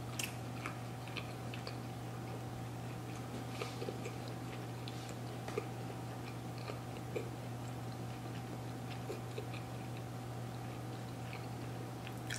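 A person chewing pieces of soft pretzel-dog dough with the mouth, with scattered small wet clicks, over a steady low hum.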